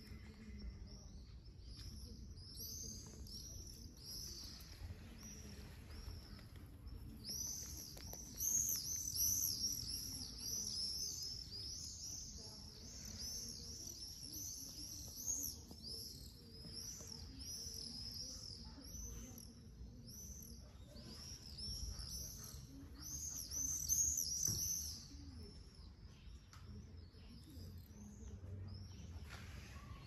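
Songbirds chirping in a fast, continuous run of short high notes. The chirping is busiest and loudest from about 7 seconds in and dies away after about 25 seconds.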